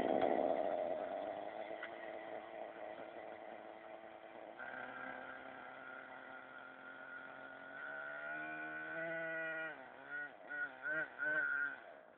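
Radio-controlled helicopter's motor and rotor whining at a steady pitch, rising in pitch about eight seconds in, then swinging up and down in several quick throttle surges near the end.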